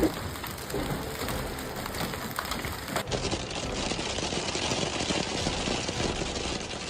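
Hailstones pelting down in a dense, steady patter. About three seconds in the sound changes abruptly, as a different recording of the storm cuts in.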